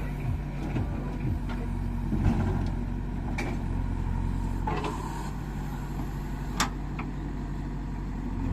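Heavy diesel engine running steadily at a low, even speed, with a few sharp knocks, the loudest about two-thirds of the way through.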